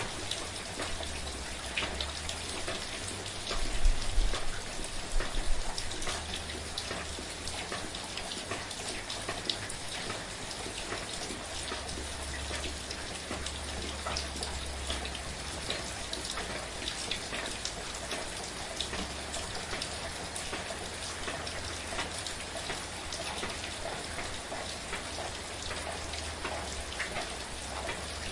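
Steady rain falling: an even hiss dotted with a dense patter of individual drops, with a brief louder low rumble about four seconds in.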